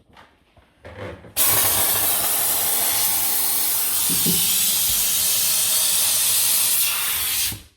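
Kärcher SC2 steam cleaner jetting steam in one steady loud hiss that starts about a second and a half in and cuts off sharply near the end, after a few faint knocks.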